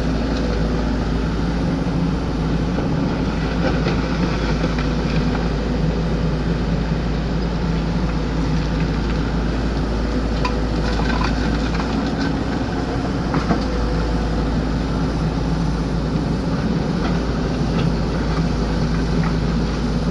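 XCMG excavator's engine running steadily, with a few light clicks about halfway through.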